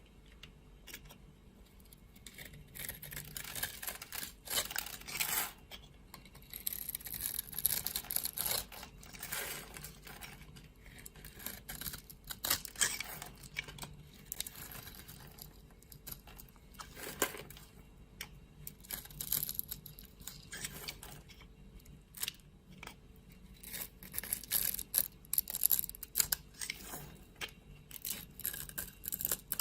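Knife cutting and carving into a bar of soap: a run of irregular crisp, crackly scraping strokes that come in clusters.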